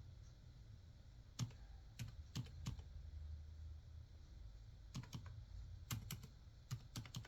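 Typing on a computer keyboard: sparse, irregular key clicks, a few about a second and a half in, then a quicker run from about five seconds in.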